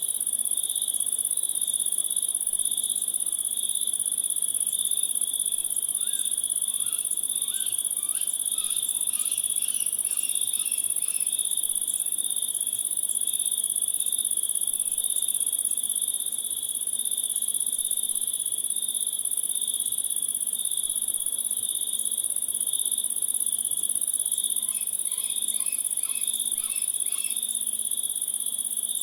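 Crickets chirping in a steady, dense chorus of high continuous trilling. Twice, a short run of quick repeated notes sounds over it, about six seconds in and again near the end.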